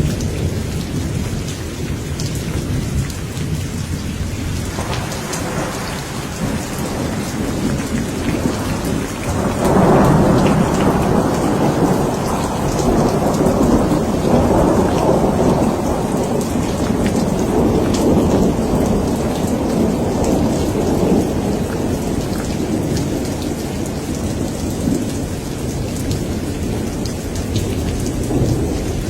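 Steady rain falling, with a long rolling thunder rumble that builds about five seconds in, grows loudest from about ten seconds in, and slowly fades toward the end.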